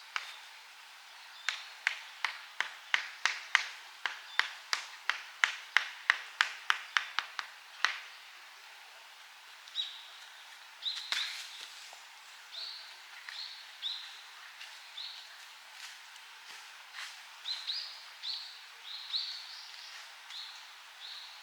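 A quick run of about twenty sharp knocks, roughly three a second, like repeated strikes on wood, stopping about eight seconds in. Then a small bird calls with short high chirps, off and on, over a quiet forest background.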